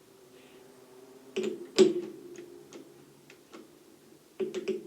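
Small metal tools clicking and clinking as they are handled and tried against each other. There are scattered clicks, the loudest knock comes about two seconds in, and a quick run of clicks comes near the end.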